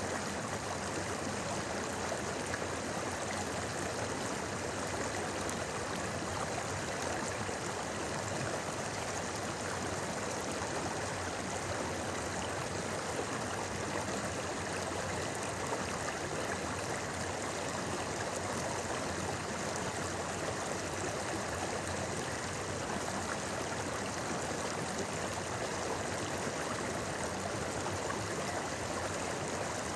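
A river babbling: a steady, even rush of flowing water with no breaks.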